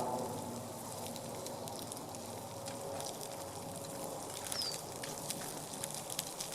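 Spam frying in a little oil in a carbon steel skillet over campfire coals: a steady sizzle with frequent small spitting pops, which come more thickly near the end.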